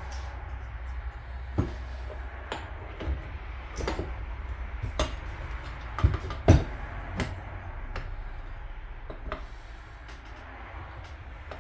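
Metal parts and tools being handled during reassembly: a scattering of separate clicks and knocks, with a louder pair about six seconds in, over a steady low hum.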